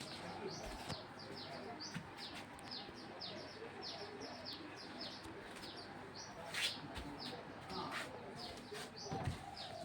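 Small birds chirping repeatedly, short high downward-sliding chirps about three or four a second, over the faint steady running of a KDK K15V0 ceiling fan.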